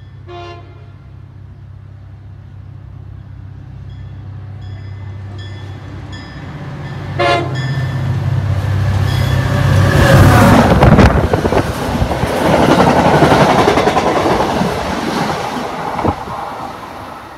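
MBTA commuter train approaching and passing at speed behind its diesel locomotive. The engine drone builds, with two short horn toots about seven seconds apart. From about ten seconds in, a loud rush of wheels and cars clatters past, fading near the end.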